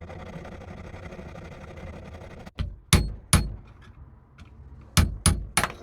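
A steady noise for about two and a half seconds, then six sharp hammer strikes in two quick groups of three, ringing on the hand drill's metal parts.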